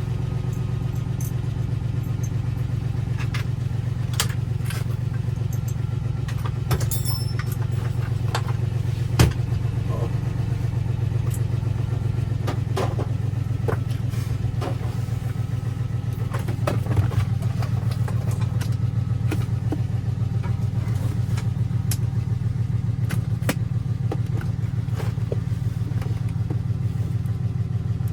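Electric motor of a key duplicating machine running steadily, with scattered light clicks and taps of keys and metal parts being handled.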